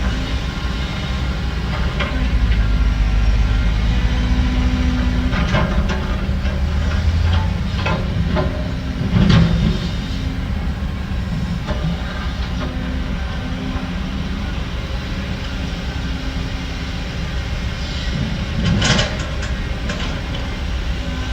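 Heavy diesel earthmoving machinery running steadily with a low rumble, with sharp metallic knocks, the loudest about nine seconds in and another near the end.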